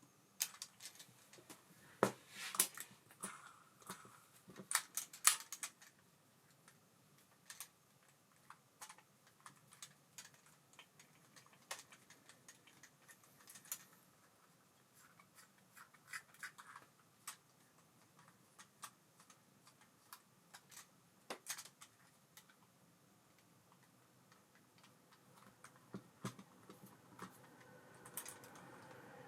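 Scattered small clicks and taps from an Abu Garcia Ambassadeur 5500C baitcasting reel being handled by hand, busiest in the first few seconds, with a faint whirring that builds near the end.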